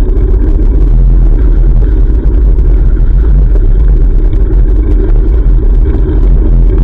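Steady, loud low rumble of wind buffeting the microphone of a GoPro carried on a moving bicycle.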